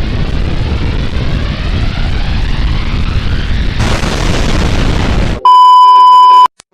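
Loud rumbling noise with a faint rising whine, turning harsher and brighter about four seconds in. Near the end it is cut off by a very loud, steady electronic beep lasting about a second, which stops abruptly.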